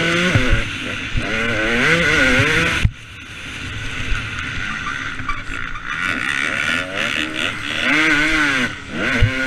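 KTM 250 SX two-stroke motocross bike engine revving hard, its pitch rising and falling over and over as the throttle is worked around the track. The sound drops off suddenly about three seconds in, then builds back up.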